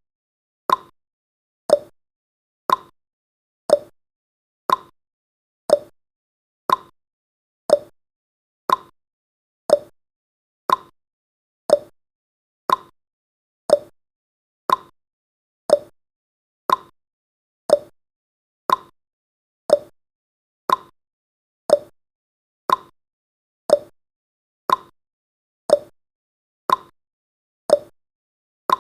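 Ticking clock sound effect: a sharp tick once a second, keeping time for a countdown timer.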